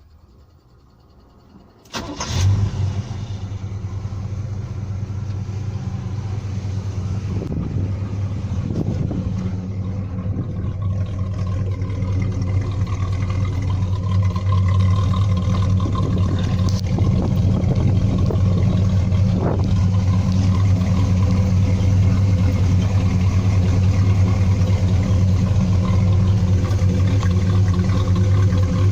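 Small-block Chevy V8 in an S-10 pickup starting about two seconds in, then idling steadily through a Magnaflow exhaust, the idle growing slightly louder over the following dozen seconds.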